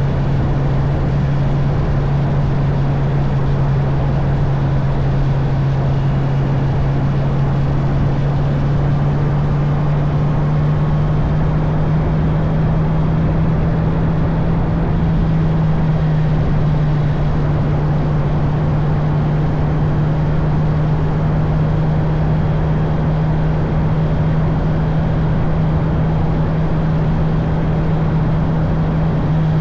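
Honda CB650R's inline-four engine running at steady cruising revs, a constant hum that rises slightly in pitch about halfway through, under a continuous rush of wind and road noise.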